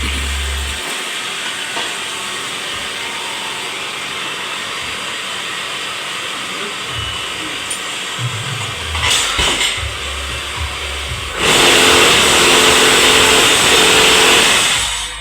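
Vibrating paving block moulding machine running with a steady mechanical noise. It grows much louder from about eleven seconds in and stops just before the end.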